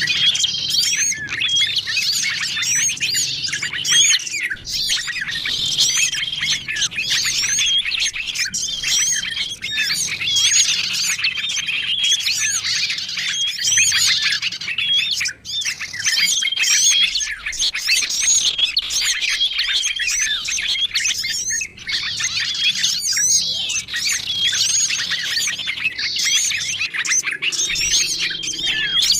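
Mixed small-songbird lure recording: a dense chorus of many small birds chirping and twittering over one another without pause, with a short flat trill that recurs every couple of seconds.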